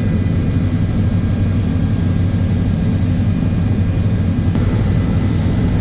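Aircraft engines running with a steady low drone, a few faint high tones held over it.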